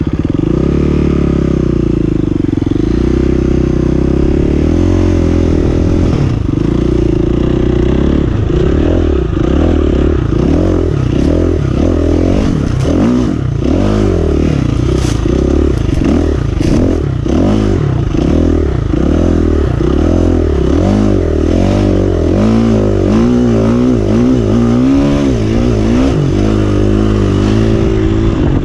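KTM 350 EXC-F single-cylinder four-stroke dirt bike engine under way, revving up and down again and again as the throttle opens and closes. A few sharp clattering knocks come about halfway through.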